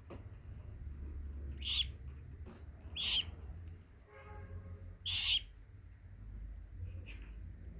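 Young parakeet chick giving short, loud begging calls: three sharp squeaks one to two seconds apart, then a fainter one near the end.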